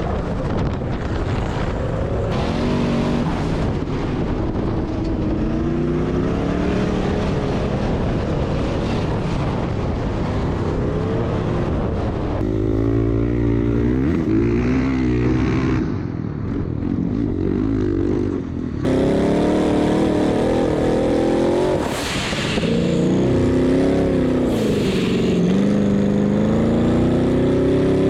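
Off-road vehicle engine revving up and down under hard driving, its pitch climbing and falling again and again. There are abrupt cuts about 12 and 19 seconds in.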